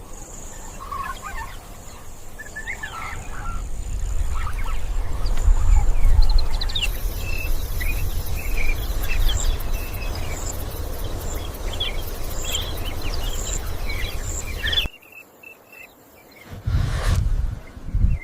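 Bird-like chirps and squawking calls over a steady low rumble. Both cut off abruptly about 15 seconds in, and a short deep thud follows near the end.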